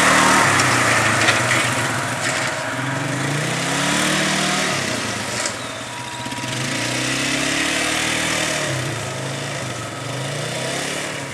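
An ATV towing an old Toro pull-behind lawn mower through mud and tall grass, with the engine sound running steadily. The engine note rises and falls several times as the machine speeds up and slows.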